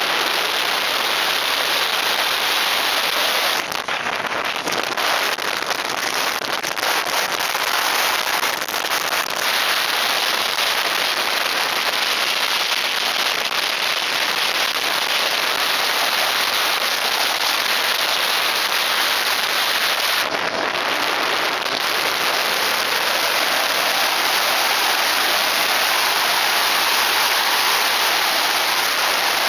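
Loud, steady wind noise on a Contour action camera's microphone: a hiss with little low end.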